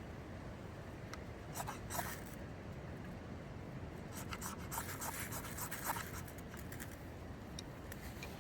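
Short, sharp scraping strokes in two groups, a few about two seconds in and more between about four and six seconds, made while lighting a fire on fatwood shavings. A steady low rush of wind runs underneath.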